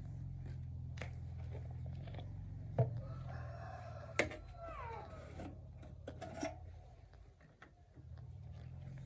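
A small gasoline engine running steadily, its low hum dipping briefly near the end before picking up again. A rooster crows about three seconds in, and a few sharp knocks sound over the engine.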